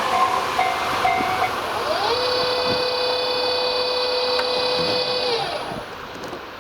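Electric commuter train passing, its running noise carrying a steady whine that holds for a few seconds and then stops, after which the train sound fades away.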